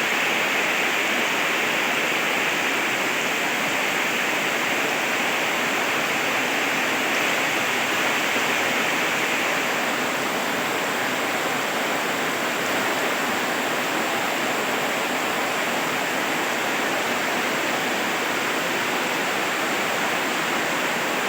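Heavy rain pouring down steadily, an even hiss of water without breaks.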